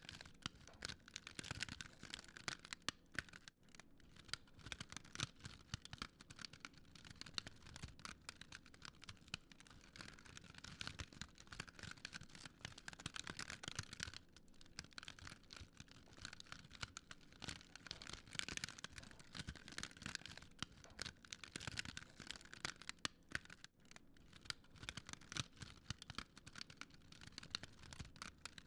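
Wood fire crackling, a dense, continuous run of small pops and snaps.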